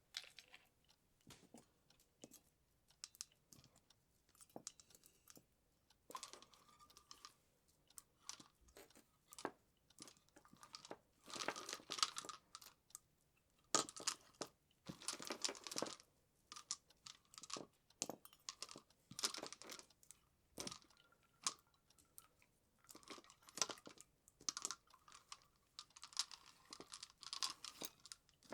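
Close-up handling sounds of Christmas tree decorations and their packaging: irregular crinkling and rustling in bursts of a second or two, with many sharp light clicks and taps between them.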